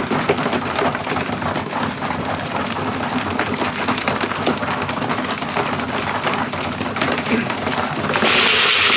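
Racing pigeons moving about in the loft: a busy patter of small clicks, wing flutters and scratching. About eight seconds in, a louder steady hiss comes in.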